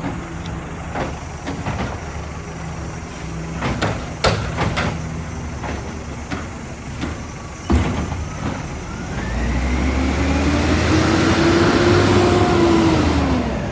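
Garbage truck at work. For the first eight seconds there are scattered knocks and clatter, with a sharp bang about eight seconds in. Then the engine revs up with a whine that rises and falls away, typical of the hydraulic packer cycling to compact the load.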